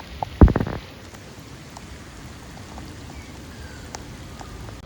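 Rain falling steadily, with scattered drops ticking close by. About half a second in comes a brief, loud clatter of a few quick knocks.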